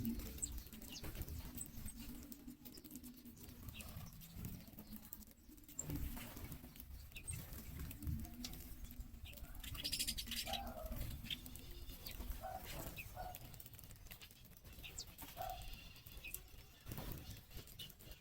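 Birds calling sporadically in short chirps and brief call notes, with occasional wing flapping and light pattering.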